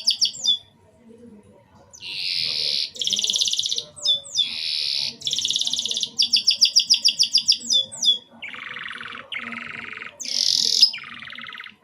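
Domestic canary singing in short, separate phrases of high buzzy rolls and rapid trills, with a pause of about a second early on. Near the end the trills drop lower in pitch.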